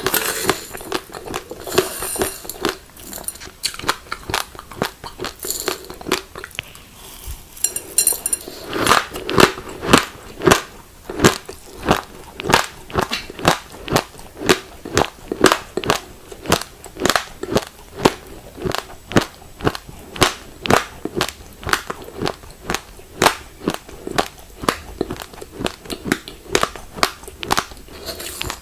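Raw glutinous rice grains being crunched between the teeth in close-up chewing. The crunches come irregularly at first, then settle about eight seconds in into a steady chewing rhythm of about two sharp crunches a second.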